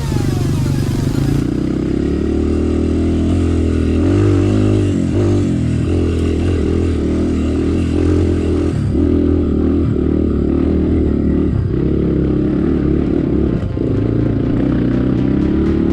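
Dirt bike engine running under load on a trail, its revs rising and falling over and over.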